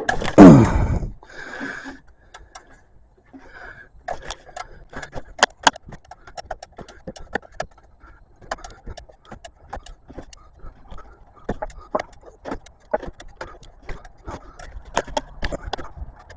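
Socket ratchet clicking in short, irregular strokes, about two to four clicks a second, as a shallow 24 mm socket works loose the oil filter cap on a 3.6-litre engine. A brief, loud sound falling in pitch comes right at the start.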